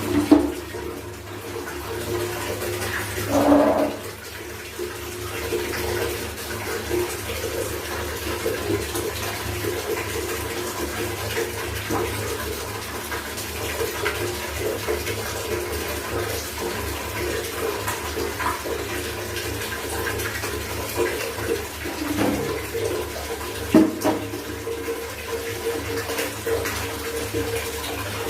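Water running and splashing as clothes are washed by hand, with a few louder splashes or knocks about 3 seconds in and again near the end.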